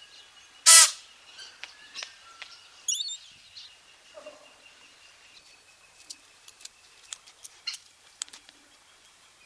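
Rainbow lorikeet calling: one loud, harsh screech about a second in, then softer short calls, a quick warbling whistle around three seconds, and scattered sharp clicks and chips.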